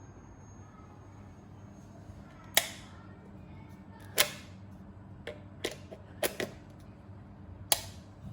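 HyperJuice charger giving a thin, steady high-pitched whine while charging a ThinkPad laptop, fading out about two seconds in. This whine is the fault the charger is being shown for. Then come about seven sharp clicks at uneven intervals over a low steady hum.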